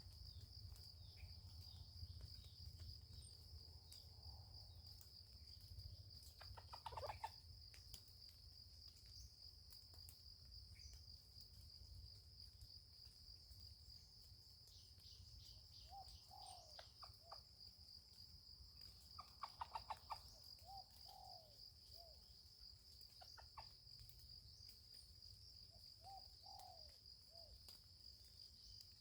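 A steady high-pitched insect drone throughout, with a few short clucking calls from chickens. The two loudest bursts come about seven seconds in and again at about twenty seconds.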